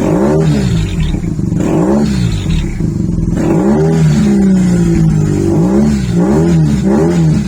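2011 BMW R1200GS flat-twin engine with an aftermarket GRmoto carbon exhaust can, idling and being revved in a series of throttle blips: several quick rises and falls in pitch, one longer rev held near the middle, and three fast blips near the end.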